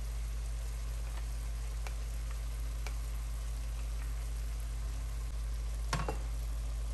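Chicken pieces sizzling gently in a stainless steel pot, with a few faint crackles, then a short clatter about six seconds in.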